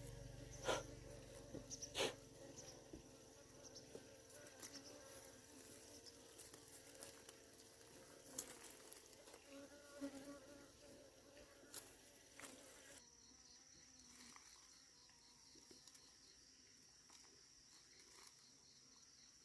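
Faint buzzing of flying insects over a high, steady insect trill, with a few sharp clicks at the start. About 13 seconds in the buzzing cuts off abruptly, leaving only the thin trill with a faint, regular pulsing.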